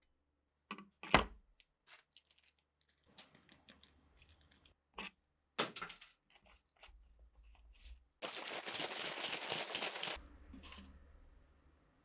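Hand work with tools and parts: a sharp knock about a second in, scattered clicks, another knock a little past halfway, then about two seconds of dense rasping noise near the end.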